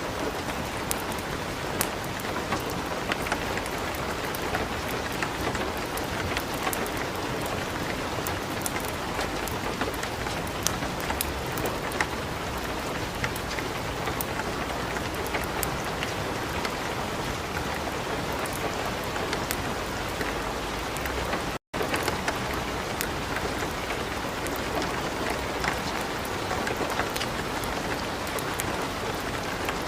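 Light rain falling steadily, mixed with a wood fire in a fireplace crackling with many small pops. The sound cuts out for a split second about two-thirds of the way through.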